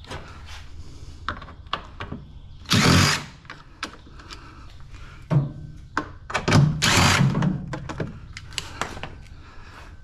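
Dismantling a scrap appliance with tools: irregular metal clicks and knocks, with two short runs of a power driver, about 3 s and 7 s in, as fasteners are backed out to remove the internal parts.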